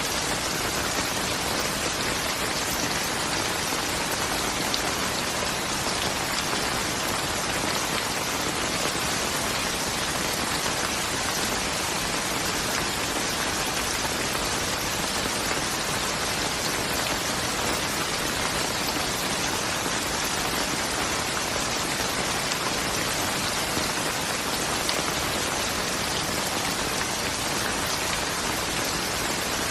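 Steady rain falling, with dense pattering of drops on a surface and no let-up.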